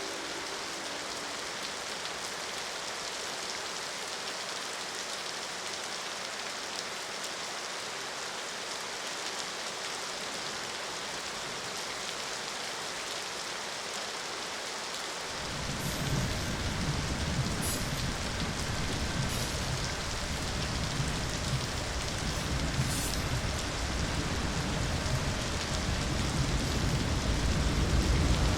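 Steady heavy rain falling. About halfway through, a deep low rumble comes in underneath and keeps building louder.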